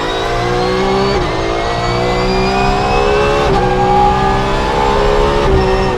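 Race car engine at full throttle, its pitch climbing and dipping briefly three times as it shifts up through the gears.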